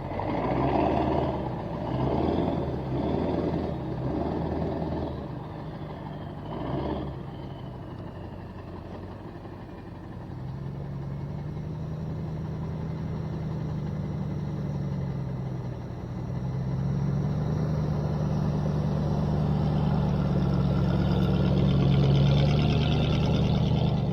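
Full-size pickup truck's V8 engine working up a rough off-road climb. It comes in uneven surges for the first several seconds, then settles into a steady drone that grows louder toward the end.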